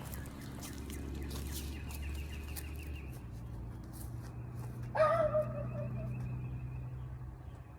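A low steady hum, with one short, loud animal call about five seconds in.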